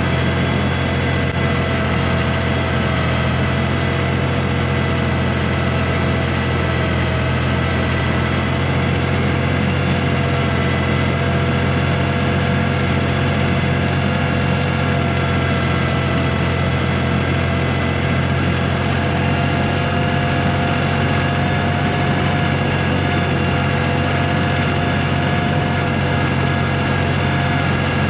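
1985 John Deere 1050's three-cylinder diesel engine running steadily while the tractor pushes snow with its blade, a constant low drone with a few steady whining tones above it.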